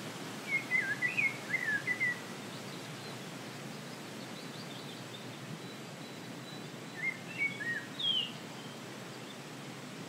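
A songbird sings two short warbled phrases, about half a second in and again about seven seconds in, with fainter distant bird notes between them. Beneath them runs a steady rushing hiss of forest breeze.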